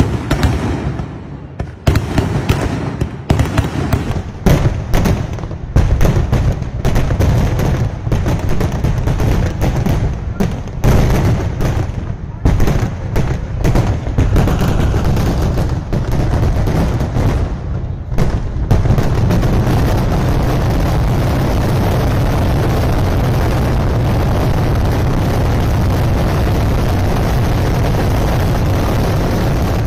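Daytime fireworks barrage: a rapid, irregular string of loud bangs that, about eighteen seconds in, merges into one continuous rumble of overlapping explosions.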